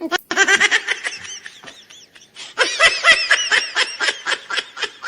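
A person laughing in rapid, high-pitched giggles, two bouts with a short break about two seconds in.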